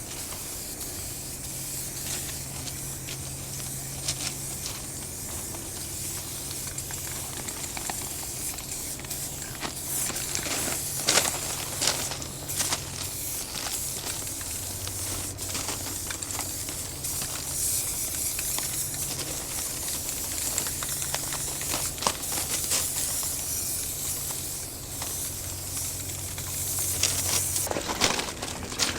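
Aerosol spray-paint cans hissing as they are sprayed, with a few sharp clicks now and then and a low hum underneath.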